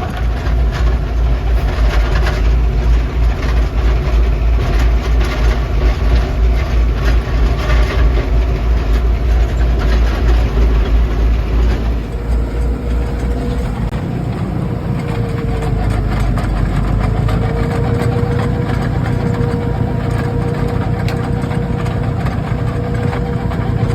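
Lovol 504 tractor's diesel engine running under load with a Dalen snowblower, a heavy low rumble that swells and falls. About halfway through the sound turns steadier, with a thin whine that dips briefly in pitch.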